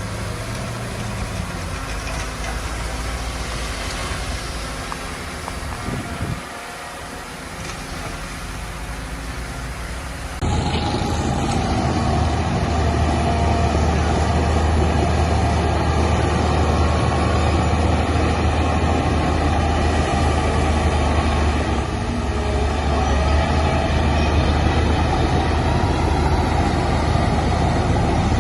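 Diesel engine of heavy earthmoving machinery running. About a third of the way in the sound cuts abruptly to a louder, steadier engine drone.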